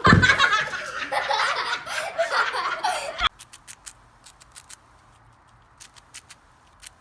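People laughing loudly, cutting off suddenly about three seconds in. After that, only a scatter of faint sharp clicks.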